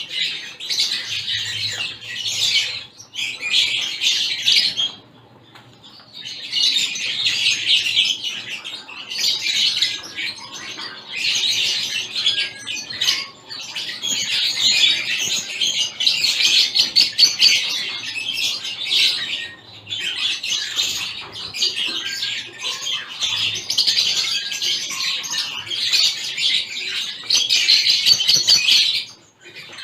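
A mixed group of small aviary finches chirping and chattering in a dense, overlapping stream of short high calls, with a brief lull about five seconds in and another near the end.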